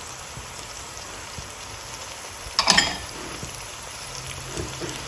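Chopped tomatoes frying in hot oil in a pan, a steady soft sizzle. A little past halfway there is a brief clatter as salt and dried fenugreek leaves are tipped in from a glass bowl.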